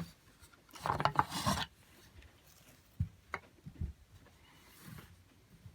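Handling noise: a rubbing or scraping lasting about a second, followed by three or four light knocks and a faint rustle.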